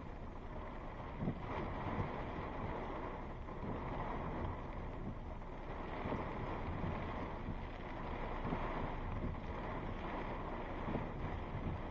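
Gusty thunderstorm wind, rising and falling, rumbling and buffeting against the microphone.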